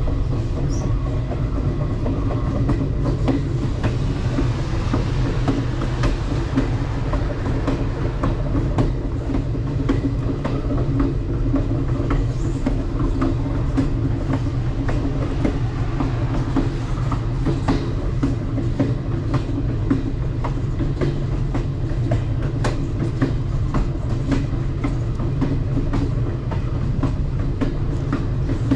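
Alaska Railroad Coastal Classic passenger train running along the track: a steady low rumble of wheels on rails with frequent irregular clicks and knocks.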